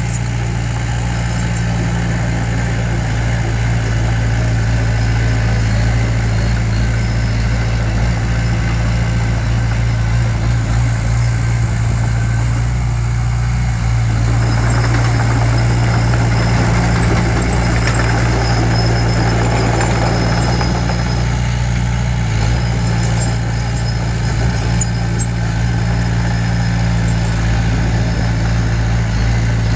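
Diesel engine of heavy construction equipment running steadily with a deep drone, with a noisier, rougher stretch in the middle.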